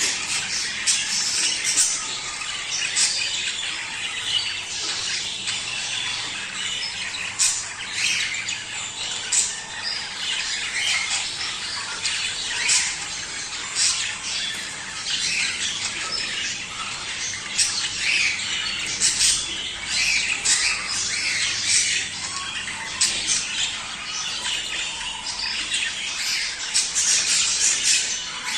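Budgerigars chattering steadily, a dense warble of overlapping chirps broken by frequent sharp squawks. This is the breeding-season chatter that is played to budgies to get them to mate.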